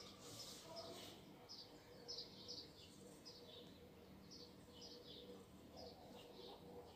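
Near silence with a small bird chirping faintly: short high chirps, often in pairs, repeating two or three times a second.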